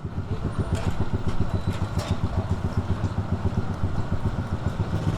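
Keeway 152 motorcycle's single-cylinder engine running steadily, its exhaust pulses coming quickly and evenly.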